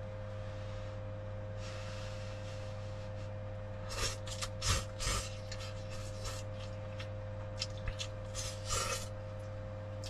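Instant noodles being eaten: a string of short slurps and scrapes, clustered from about four seconds in and again near nine seconds, over a steady mechanical hum.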